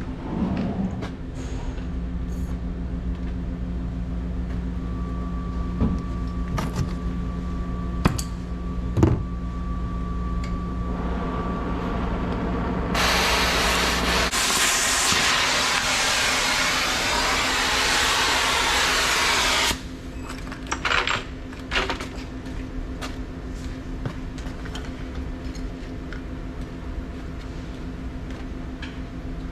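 An oxy-fuel cutting torch cutting steel: its jet hisses loudly for about seven seconds from about 13 s in, then cuts off suddenly. A steady low hum and a few sharp knocks run underneath.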